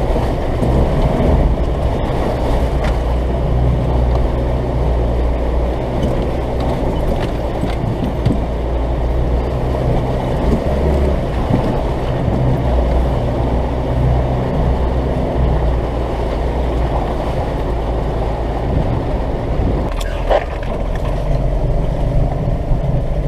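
Diesel 4x4 truck engine labouring steadily in low gear as the truck crawls through deep, slippery mud, with an occasional knock from the truck about 20 seconds in.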